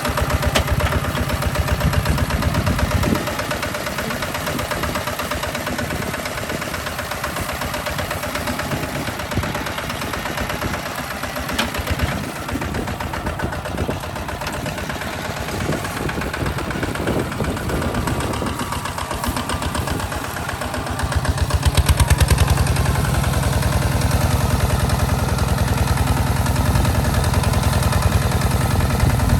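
Hinota HG Gold 155 DI tractor's direct-injection diesel engine running with a steady, rapid knocking beat while plowing. It runs louder and heavier for the first few seconds, eases off, then grows louder again about two-thirds of the way through.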